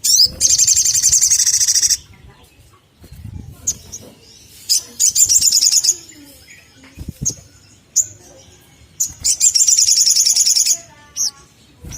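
Sunbird (sogon) calling in three bursts of fast, high-pitched chattering trills, each one to two seconds long, with short single chirps between them. This is a lure recording of the call used to set other sogon singing.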